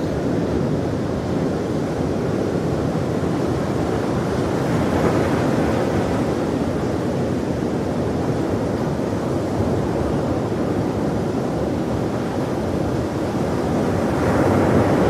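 Ocean waves breaking and washing on the shore in a steady, continuous rush, swelling a little about a third of the way in and again near the end.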